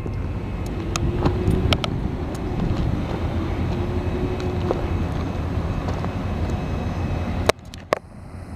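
Steady low vehicle rumble with wind on the microphone and a few sharp clicks. The level drops suddenly near the end.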